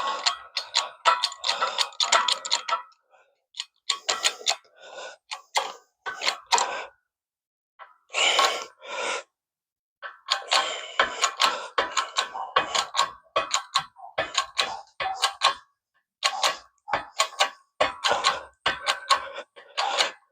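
Rapid metallic clicking in short bursts with brief pauses, as a universal-joint bearing cap is worked down flush into the driveshaft yoke.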